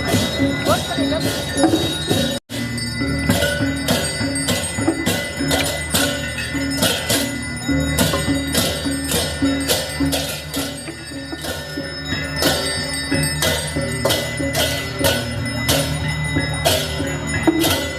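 Balinese gamelan music: bronze metallophones and bells struck in a steady pulse of about two to three strokes a second over a low sustained ring. The sound cuts out for an instant about two and a half seconds in.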